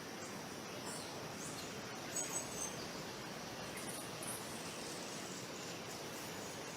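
Outdoor nature ambience: a steady hiss of background noise with a few short, high bird chirps about two seconds in.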